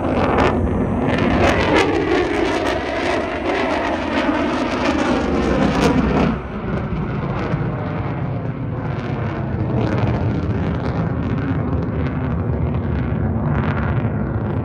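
An aircraft flying past at an airshow. Its engine roar falls in pitch as it goes by, drops off suddenly about six seconds in, and a lower rumble carries on after that.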